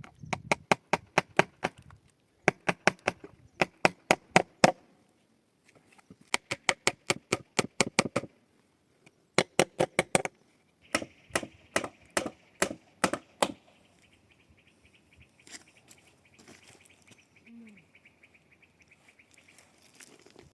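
Rapid knocking in bursts of one to two seconds, about eight to ten sharp strikes a second, with short pauses between bursts. It falls to faint scattered taps in the last few seconds.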